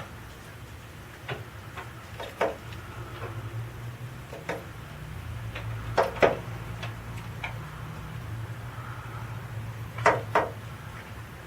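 A small bird pecking and striking at a window pane: sharp taps on the glass, single or in quick pairs, a second or more apart, over a steady low hum.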